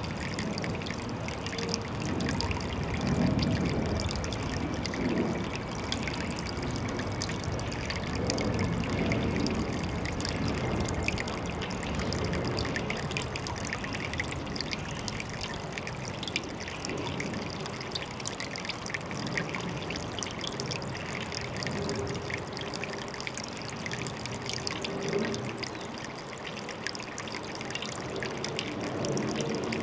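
Water trickling and pouring steadily, with many small splashes and gentle swells.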